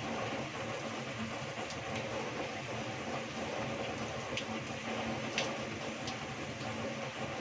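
Heavy tropical rain falling steadily, with water pouring off the roof edge and a few sharp drip splats standing out, the loudest about five seconds in. A faint steady hum runs underneath.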